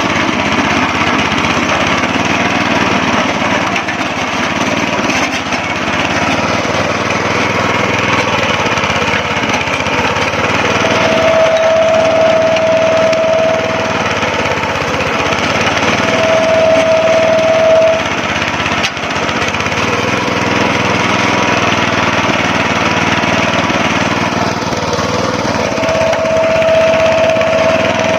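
Small single-cylinder gasoline engine of a rotovator running steadily after its carburetor, fuel tank and fuel hoses have been cleaned and replaced. A clear steady tone rises out of the engine noise three times: about halfway through, again a few seconds later, and near the end.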